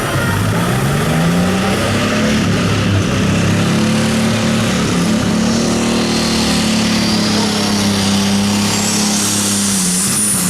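Turbocharged diesel engine of a Limited Superstock pulling tractor revving up over the first couple of seconds and then holding at high revs under load. A rising turbo whistle climbs over the second half, and the revs ease off near the end.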